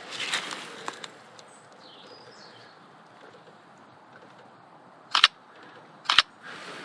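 Camera shutter of a Canon EOS R firing twice, about a second apart, each shot a sharp double click. Faint bird chirps sound over quiet outdoor ambience before the shots.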